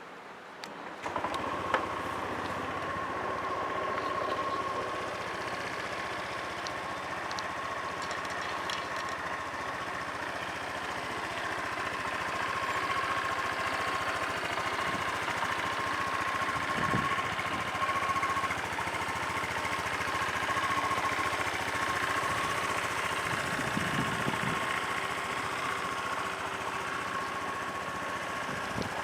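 2010 Honda PCX (JF28) 125 cc single-cylinder four-stroke scooter engine starting about a second in, then idling steadily with an even tone. It is a used engine in good running order.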